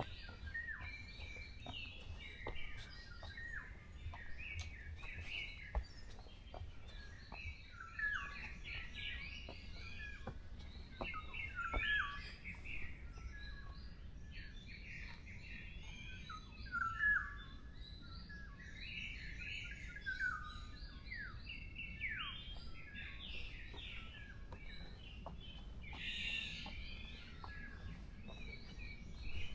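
Several forest birds chirping and calling, with many short overlapping notes and trills that are busiest near the middle. A low steady rumble runs underneath.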